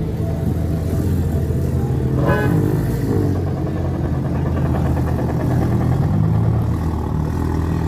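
Car engines running steadily at a low pitch, with a brief higher-pitched sound that rises and falls about two seconds in.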